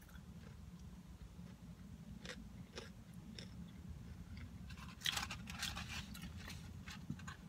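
Close-up chewing of french fries, with soft crunches and scattered small clicks, then a burst of rustling from the cardboard fry carton as it is tipped up to the mouth about five seconds in. A steady low hum lies underneath.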